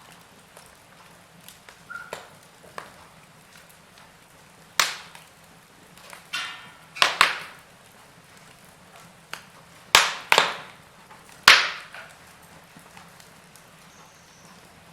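Wood logs burning in a fireplace, crackling with scattered sharp pops. About five loud pops come around 5, 7, 10 and 11.5 seconds in, with a short rapid rattle of small crackles just before the second, over a faint steady background.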